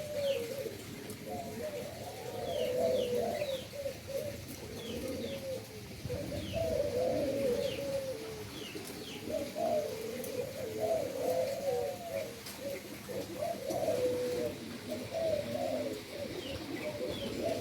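Doves cooing in repeated wavering phrases, one after another, with brief high chirps of small birds between them.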